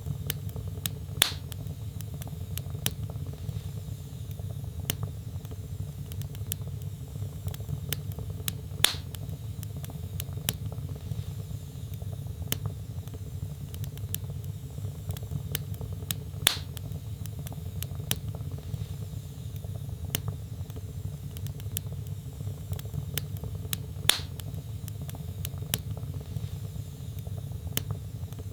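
Log fire burning in a fireplace: a steady low rumble of flames with frequent small crackles, and a louder pop about every seven to eight seconds, four times in all.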